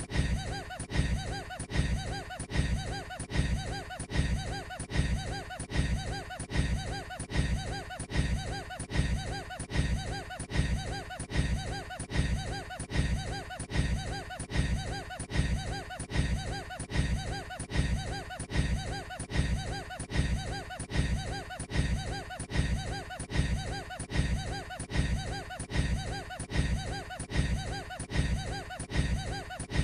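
A short snippet of a man's laugh, looped over and over, repeating about once a second.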